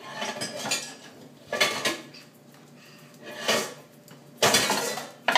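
Pots and pans being banged and rattled together, in four uneven bursts of clanking and clattering about a second apart, the longest and loudest near the end.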